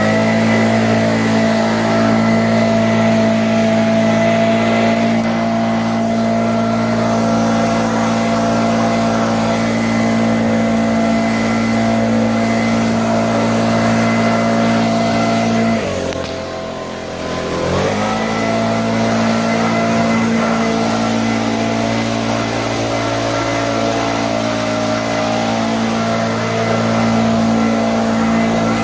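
An engine running steadily at high speed. About 16 seconds in it drops off briefly as the throttle is let off, then revs back up and holds steady.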